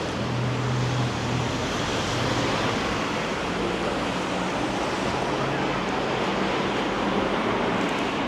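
Steady hiss of rain falling, with a low hum in the first couple of seconds.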